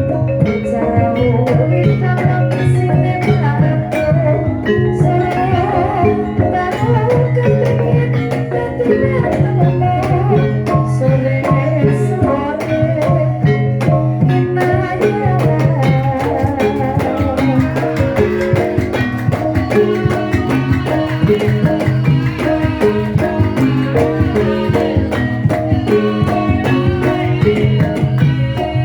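Javanese gamelan music: a gendhing played on struck metallophones with drum strokes in a steady beat.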